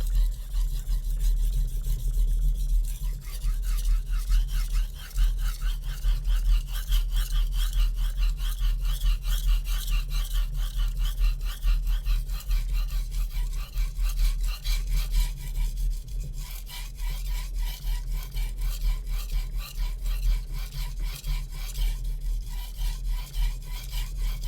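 HAP40 steel chef knife being sharpened on a Naniwa Super Stone whetstone: rapid, continuous back-and-forth scraping strokes of the blade across the stone, made with no downward pressure, only the weight of the hand and knife. The strokes ease briefly about 15 and 22 seconds in, over a steady low hum.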